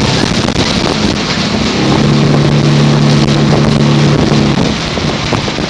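Motorboat engine running at a steady pitch over a constant rushing noise of wind and water; the engine's hum swells in about two seconds in and fades near the end.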